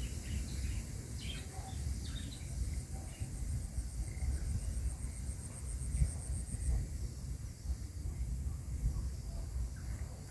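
Garden ambience: a few short bird chirps in the first two seconds, and an insect's rapid high-pitched pulsing trill that stops about six and a half seconds in, over a steady low rumble.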